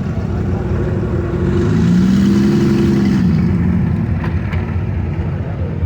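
A car engine going past, its note rising and then falling away between about one and a half and three seconds in, over a steady low rumble.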